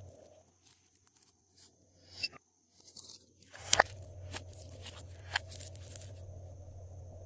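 Glossy slime being squeezed and stretched by hand, giving scattered sticky clicks and crackles, with a louder crunchy burst about three and a half seconds in.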